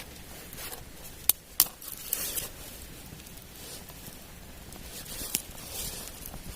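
Two sharp clicks or snaps in quick succession about a second and a half in, then a fainter one later, among short rustling and scraping handling sounds.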